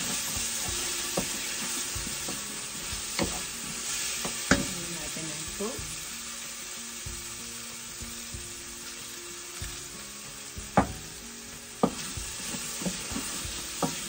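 Tomatoes, onion and garlic sautéing in oil in a stainless steel pot, a steady sizzle, while a wooden spatula stirs them with scattered sharp knocks against the pot.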